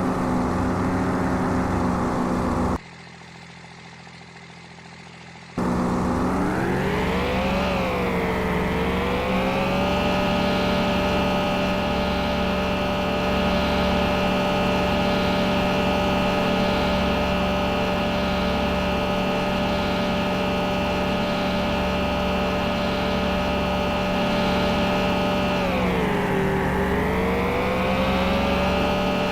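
An engine running steadily, its pitch rising and falling once and dipping again near the end. About three seconds in, the sound drops sharply to much quieter for a few seconds before returning.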